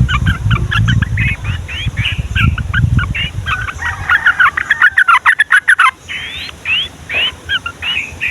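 Yellow-vented bulbuls singing loudly in bubbly chattering phrases, several notes overlapping, with a fast rolling run of notes about five seconds in. A low rumble sits under the first few seconds.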